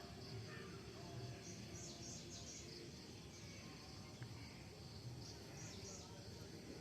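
Faint, short high-pitched bird chirps in small clusters, over a steady background hiss.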